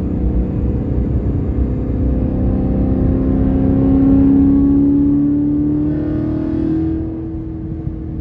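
BMW E92 M3's S65 V8 running through a valved aftermarket exhaust under acceleration. The exhaust note builds to its loudest about four seconds in, then eases off around seven seconds.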